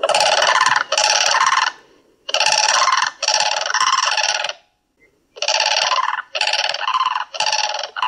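A bird's harsh, repeated call given in phrases: two notes, a short pause, two more, then a run of four notes in the second half.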